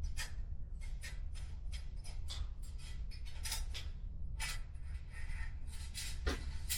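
Brake line and twine dragged through a bicycle frame tube in short tugs: a quick, irregular series of scraping, rubbing strokes.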